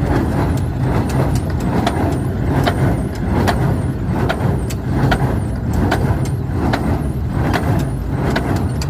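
Claas Markant 650 baler running on tractor power during a test run: a steady engine hum with sharp mechanical clicks and knocks repeating every second or less.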